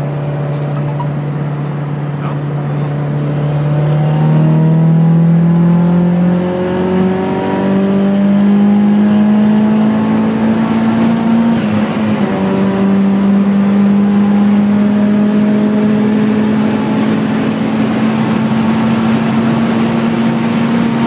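Nissan Silvia PS13 drift car's engine pulling hard on a top-speed run, its pitch climbing over the first eight seconds, dipping briefly about twelve seconds in, then holding high and rising slowly.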